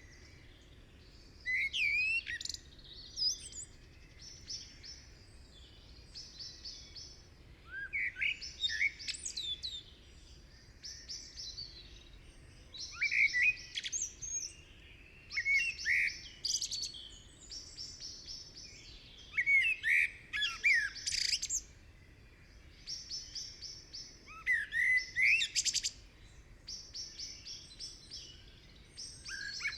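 Songbirds chirping and singing: short rising and falling chirps and quick trilled phrases that come in clusters every second or two.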